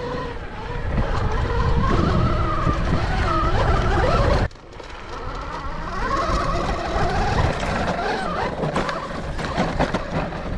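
Electric dirt bike (Rawrr Mantis X) motor whining, its pitch rising and falling, over heavy wind rumble on the microphone. The sound drops suddenly about four and a half seconds in, then the whine carries on more quietly.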